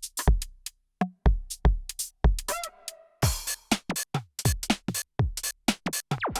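Korg drumlogue drum machine playing a preset electronic pattern: a steady kick drum with hi-hats and snare hits. It drops out briefly just before a second in, a wavering pitched synth note sounds near the middle, and a busier pattern starts about three seconds in.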